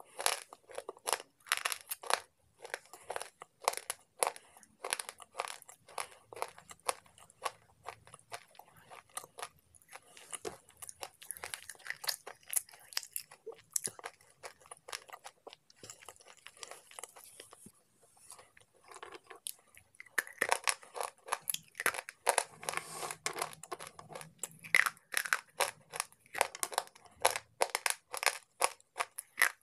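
Slate pencils being crunched and chewed in a person's mouth close to the microphone: a rapid run of sharp crunches that thins out about halfway through and comes back denser and louder in the last third.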